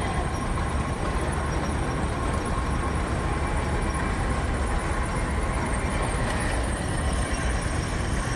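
Steam traction engine running slowly past, a steady low rumble with no distinct beats.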